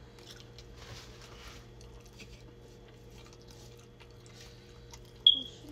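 Quiet chewing and mouth sounds of someone eating, with small handling noises. About five seconds in comes one sudden, short, sharp sound with a brief high ring, much louder than the rest.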